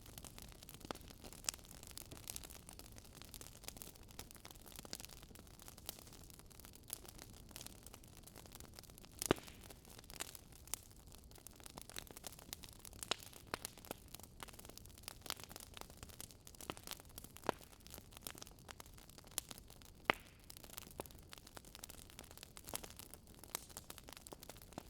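Campfire crackling softly: irregular pops and snaps over a faint steady hiss.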